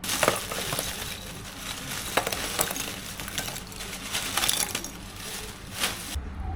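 Busy crunching and clattering of hard pieces being handled, with many sharp clinks scattered through it; it starts suddenly and cuts off just before the end.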